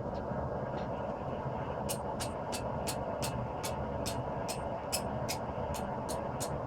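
Hammer striking hot 5160 spring steel on an anvil while forging out a knife blade: a couple of light blows, then a steady run of about three ringing blows a second from about two seconds in. Under it the forge burner runs with a steady roar.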